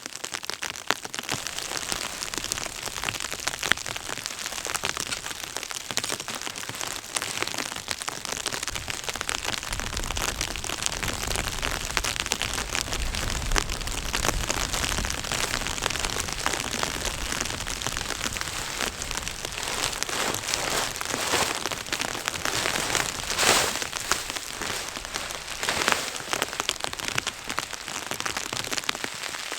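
Dense, steady patter of precipitation hitting a surface in stormy weather, with a low wind rumble between about ten and sixteen seconds in.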